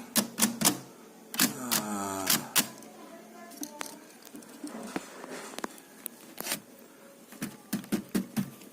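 Spotted dove cooing one phrase about a second and a half in, with scattered sharp clicks, more of them near the end.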